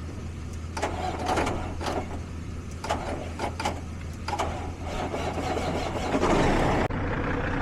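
Diesel truck engine running with a steady low hum, over a string of irregular clicks and knocks, louder for a moment near the end.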